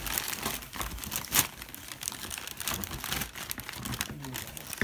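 Christmas wrapping paper crinkling and rustling as it is handled, in irregular crackles, with one louder crunch about a second and a half in.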